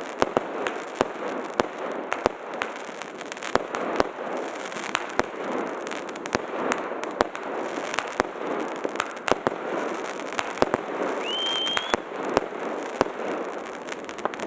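Fireworks going off: a steady background of crackling and distant bangs, with many sharp, loud reports at irregular intervals. A short whistle rises in pitch and levels off about eleven seconds in.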